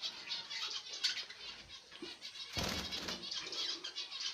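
A flock of budgerigars chattering with fine, rapid chirps, and a burst of wing flapping about two and a half seconds in.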